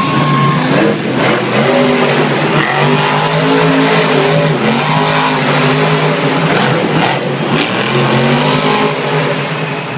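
Monster truck engine revving hard again and again, its pitch rising and falling, with several sharp cracks among the engine noise.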